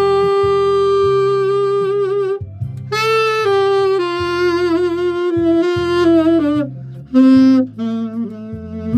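A solo wind instrument plays a slow melody over a backing track with a steady bass line, holding a long note at the start, breaking off briefly, then moving through a falling phrase of held notes with vibrato.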